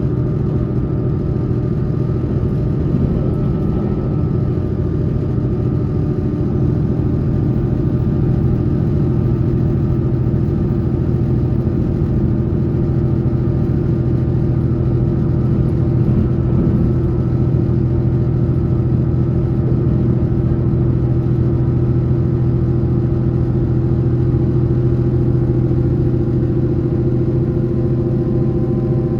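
Electric train running at a steady speed, heard from on board: a continuous rumble of wheels on rail under a steady hum.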